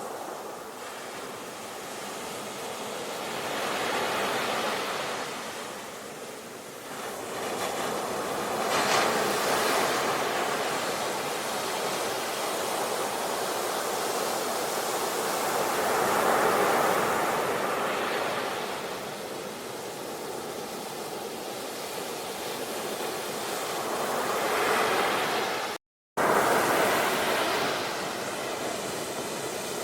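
Ocean waves breaking on a shore, the surf swelling and falling back every few seconds. Near the end the sound cuts out to silence for a fraction of a second.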